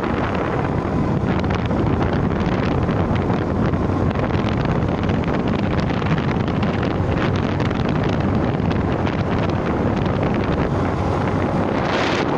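Steady wind buffeting the microphone, a loud even rumble with no breaks.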